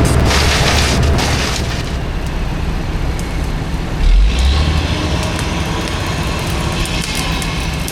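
Heavy equipment running with a steady low rumble, a hissing noise during the first second and a half, and a heavy low thud about four seconds in.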